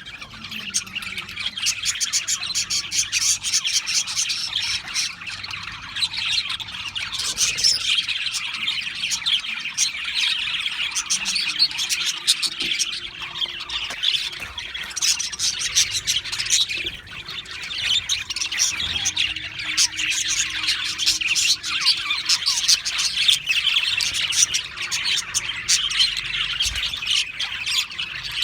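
Budgerigars chattering and chirping in a dense, continuous overlapping chorus, with occasional squawks.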